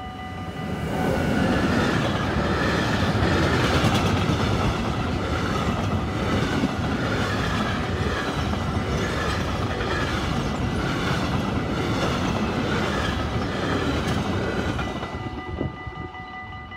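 Freight train of an electric locomotive (Siemens class 189) and covered boxcars passing close by at speed, a steady rumble with rhythmic clickety-clack of wheels over rail joints. It swells about a second in and dies away near the end as the last wagons pass. A level-crossing warning bell rings steadily throughout.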